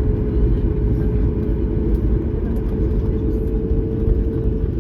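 Boeing 737-9 MAX jet noise, a loud steady deep rumble with a steady hum running through it.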